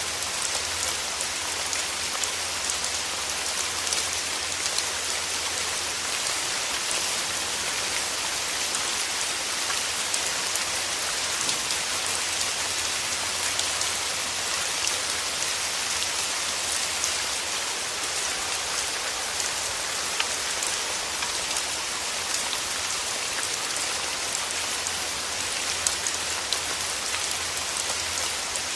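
Steady rain falling: a dense, even patter with scattered single drops ticking through it.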